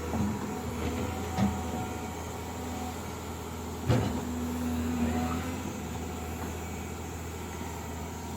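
An engine running steadily, with a sharp knock about four seconds in and a smaller one earlier.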